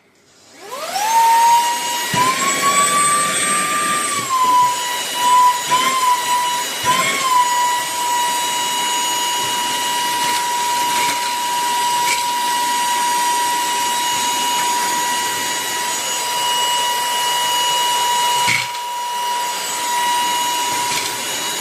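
SERVOMASTER cordless handheld vacuum cleaner switched on: its high-revving motor spins up within a second to a steady high whine. The pitch rises and wavers a few seconds in, with a few clicks as small metal items such as nuts, a coin and paper clips are sucked in.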